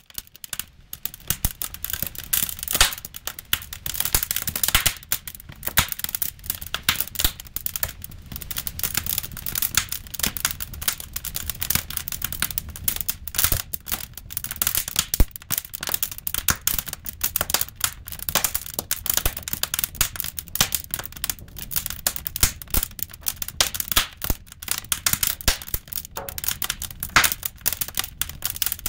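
Seasoned firewood burning in a fireplace, crackling with many sharp, irregular pops and snaps over a low steady hiss of the flames.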